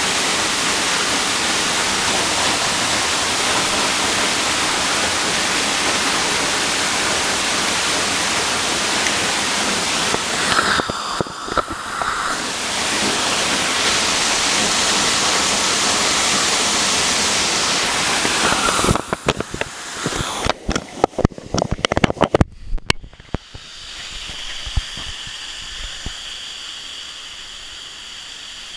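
Waterfall in heavy rainy-season flow: a steady, loud rush of falling water. About nineteen seconds in, a run of knocks and scrapes of handling on the microphone as the phone goes into a waterproof case, after which the rush is muffled and quieter.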